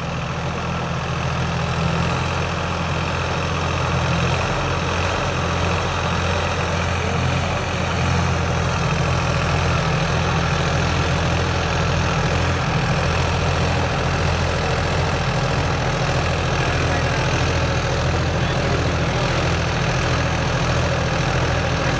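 Tractor diesel engine running steadily with a deep hum, a little louder after the first few seconds.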